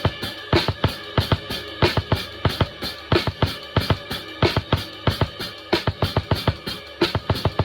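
Acoustic drum kit played in a steady, busy groove: a fast run of bass drum and snare strokes, several a second, over a constant ringing.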